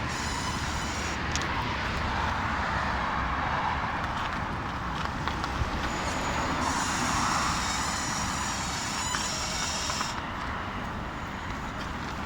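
Renault Sandero Stepway's steering creaking as the wheel is turned, over a steady running noise from the car, with a higher squeaky band for a few seconds in the middle. The creak is a steering fault whose cause the owner has not yet traced.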